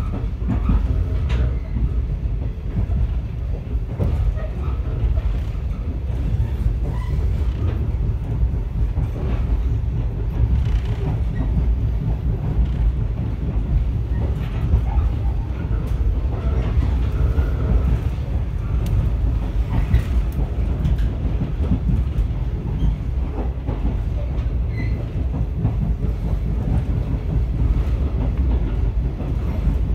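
Echizen Railway MC7001 electric railcar (a rebuilt JR 119 series) running along the line, heard from inside the car: a steady low rumble with occasional clicks from the wheels on the track.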